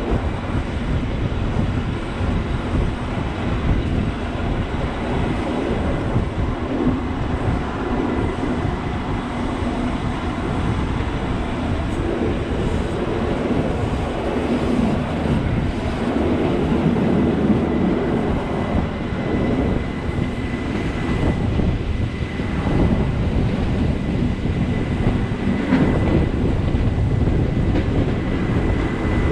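Rhaetian Railway ABe 8/12 electric multiple unit running downhill, heard from aboard: a steady rumble of wheels on rails and running gear. A faint high steady whine comes in about halfway through.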